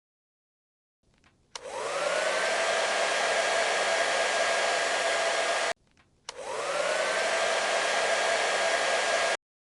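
Hair dryer switched on twice, heating the adhesive vinyl wrap. Each time its motor spins up with a rising whine into a steady blowing hiss. It runs for a few seconds and then cuts off abruptly.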